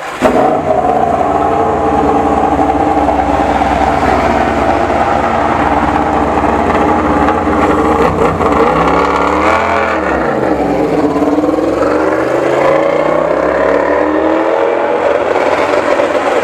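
Yamaha YZR-M1 MotoGP racing motorcycle's inline-four engine running loud at high revs. It cuts in abruptly at the start, and its pitch dips and climbs back about ten seconds in, then rises again near the end.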